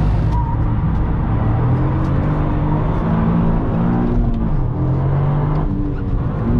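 Toyota GR Yaris's turbocharged 1.6-litre three-cylinder engine heard from inside the cabin under hard driving, its revs climbing and dropping several times as the driver works through the gears.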